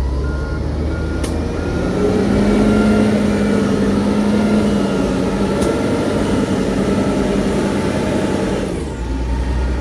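Heavy diesel engine of earthmoving machinery revving up under load. It holds high for several seconds and drops back near the end. A reversing alarm beeps steadily in the first couple of seconds.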